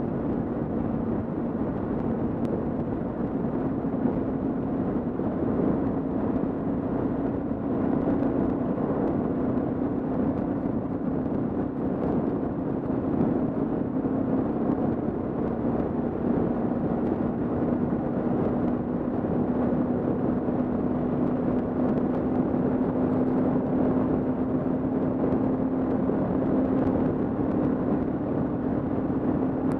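Kawasaki KLR650's single-cylinder four-stroke engine running at a steady cruise, its note drifting slightly in pitch, under wind and road noise on a helmet-mounted camera.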